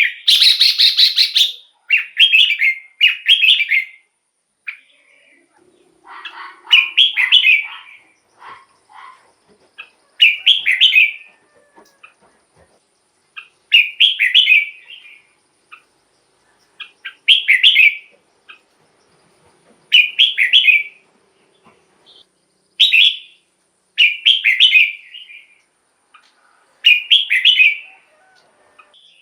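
Red-whiskered bulbul singing: short, loud, bright whistled phrases about a second long, repeated every three to four seconds with pauses between.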